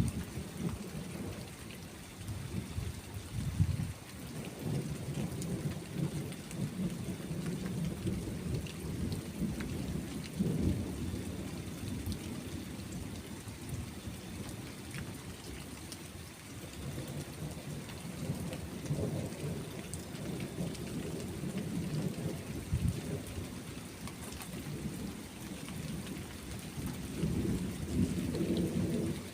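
Thunderstorm: steady rain hiss with rolling thunder rumbling low underneath, swelling and fading in several long waves, the loudest near the start and near the end.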